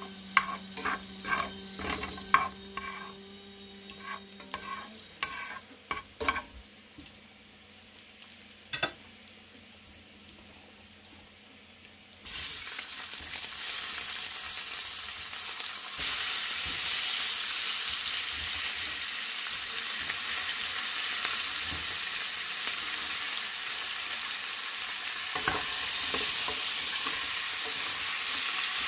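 Chopped garlic frying in oil in a nonstick pot, with a spatula clicking and knocking against the pan over a quiet sizzle. About twelve seconds in, a loud, steady sizzle starts as bok choy pieces hit the hot oil, and it gets louder twice more as more bok choy is added.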